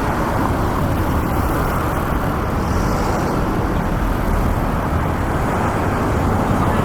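Steady road traffic noise from a city street, a continuous even rumble without distinct events.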